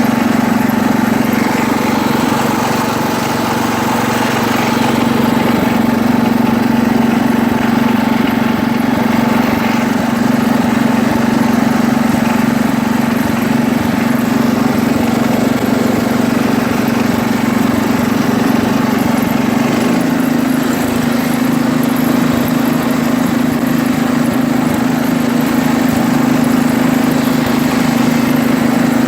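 1973 International Harvester Cub Cadet 86 garden tractor's single-cylinder engine running steadily; its note shifts slightly about two-thirds through.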